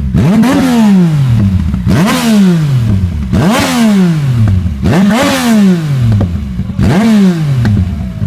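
Yamaha MT-09's inline-three engine with an Akrapovic exhaust, revved in about five quick blips. Each rises sharply in pitch and falls back to idle.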